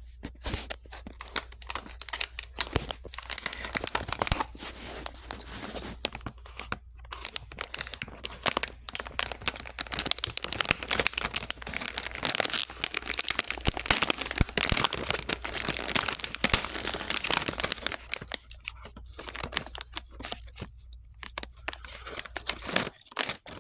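Plastic Chips Ahoy! cookie package crinkling and tearing as it is handled and opened: a dense crackle of rustling for most of the time, thinning to scattered crinkles over the last few seconds.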